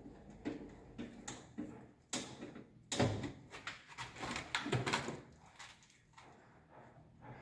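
Clicks, knocks and rattles of plastic miniature circuit breakers and wiring being handled and fitted in a consumer unit, busiest and loudest in the middle.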